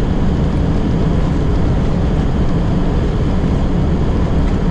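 Steady loud rush and rumble of a Boeing 737-800's landing rollout heard inside the cockpit: the CFM56 engines running in reverse thrust while the airliner decelerates down the runway.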